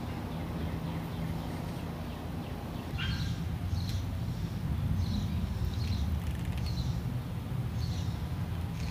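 Steady low background hum with faint, scattered bird chirps, which begin about three seconds in, as the hum grows slightly louder.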